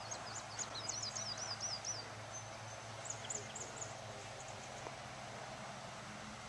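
A songbird singing outdoors: a quick run of about ten high, falling chirps in the first two seconds, then a few more notes around three seconds in, over a faint steady background.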